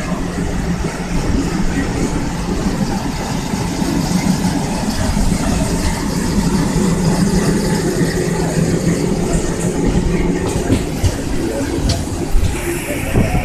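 Passenger train running along the track: a steady rumble of wheels on rails with a low hum, which fades about ten seconds in. A few sharp clicks come near the end.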